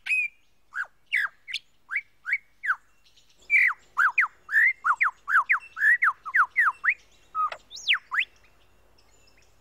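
Superb lyrebird singing: a string of clear whistled notes, each sweeping downward, spaced out at first, then a rapid run of about a dozen in quick succession, ending with two longer swooping notes about eight seconds in.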